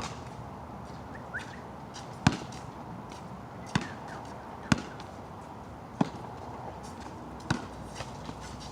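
A ball thudding sharply about six times at uneven intervals, over a steady background hiss.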